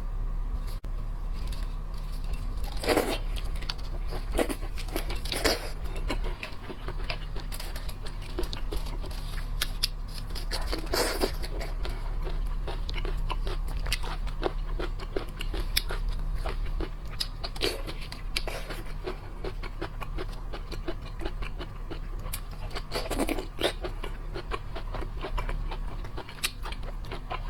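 Close-up eating of shrimp and crab: chewing and crunching with many small clicks of shell, and a few louder cracks or smacks, over a steady low hum.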